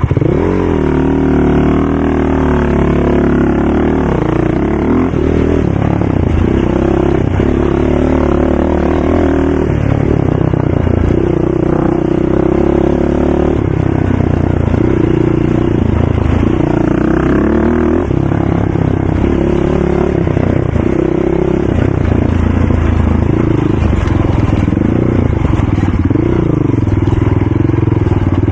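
ATV engine revving up and down over and over, its pitch rising and falling the way it does when the quad is ridden hard around a race track.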